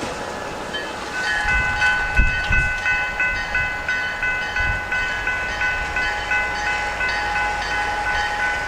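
EMD SD40-2 diesel locomotive's air horn blowing one long steady multi-note blast as it passes through a gated grade crossing, starting about a second in, over the low rumble of the engine and wheels.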